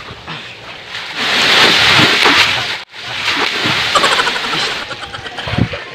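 Water splashing in a swimming pool as someone plunges in. A loud rush of splashing builds about a second in, breaks off for an instant near the middle, then goes on before dying down.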